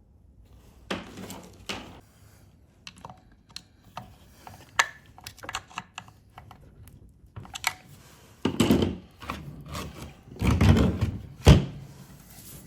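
Hand work on a Stihl 020 chainsaw: scattered small clicks, taps and rubbing of tools and plastic and metal parts as a screw is fitted. Near the end come two louder rasping sounds about a second long each, the second ending in a sharp knock.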